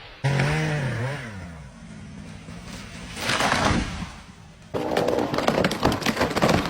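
Chainsaw engine revving and easing back, then a hissing surge about three seconds in. Near the end the sound switches suddenly to a dense crackling and snapping of breaking wood.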